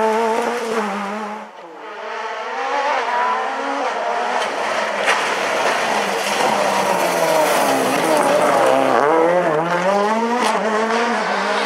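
Rally car engine at full throttle, its pitch rising and falling through gear changes and lifts. The sound drops away briefly about a second and a half in, then builds again.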